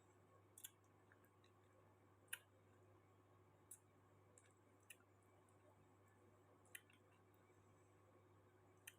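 Near silence over a faint steady low hum, broken by about six faint, sharp clicks at uneven intervals.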